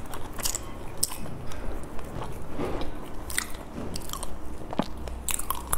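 Close-miked eating of a soft green glutinous rice cake (qingtuan) filled with salted egg yolk and pork floss: chewing and biting, with scattered sharp wet mouth clicks.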